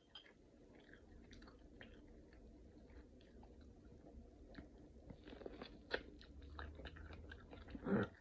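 A person chewing food close to the microphone: scattered small wet clicks and smacks of eating corn on the cob, with a louder bite-like burst near the end.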